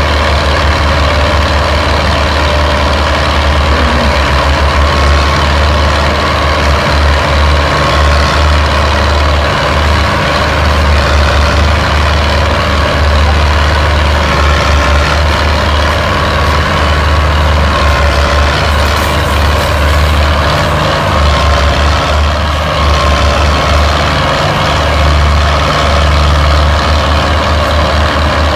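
Diesel farm tractor engines running loudly and steadily, with a deep low drone.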